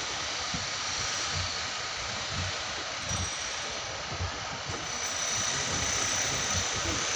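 Indian Railways passenger coaches rolling past on the track: a steady rumble and hiss of wheels on rails, with irregular low thumps.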